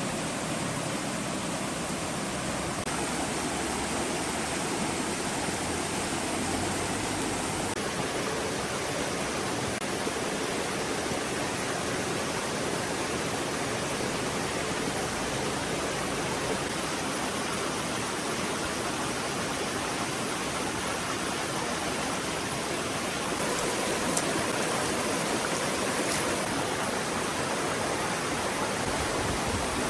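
Steady rush of running water from a forest stream.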